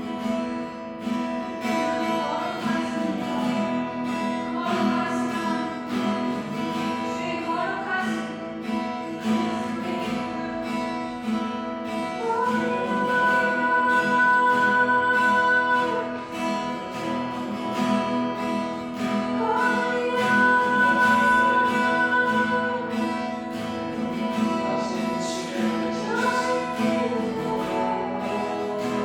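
Strummed acoustic guitar accompanying a slow sung melody, with long held notes, as in a worship song.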